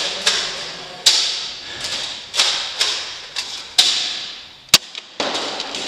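Nerf blasters firing and foam darts hitting: about seven sharp thuds and snaps at uneven intervals, each trailing off in an echo. The sharpest, loudest crack comes near the end.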